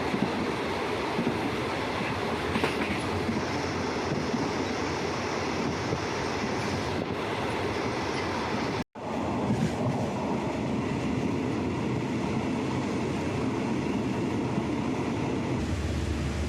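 Passenger train running along the rails: a steady rumble and rattle of wheels and carriage. It cuts out for an instant about nine seconds in.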